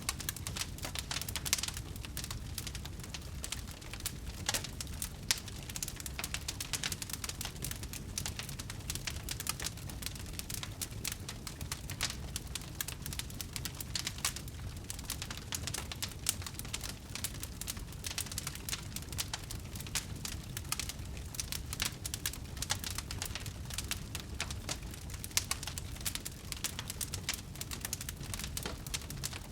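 Wood fire burning, crackling with a dense stream of quick snaps and pops over a low rumble.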